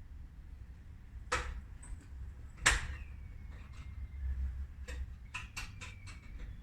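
A few sharp knocks and clicks, the loudest about two and a half seconds in, with a faint thin steady tone after it and a quick run of clicks near the end.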